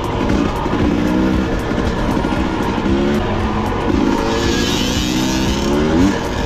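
Two-stroke dirt bike engine revving and accelerating, its pitch rising several times in a row.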